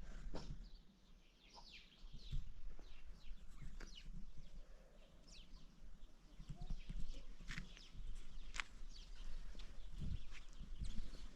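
Outdoor animal sounds: many short, high chirps and calls at irregular intervals over a low, steady rumble.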